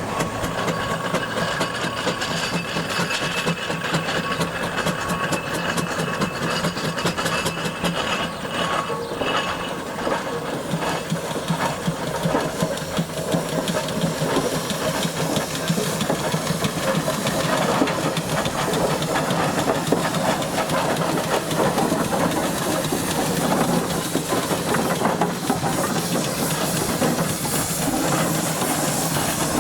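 Steam traction engine running along the road: a steady hiss of steam over a rapid, continuous clatter of its working parts.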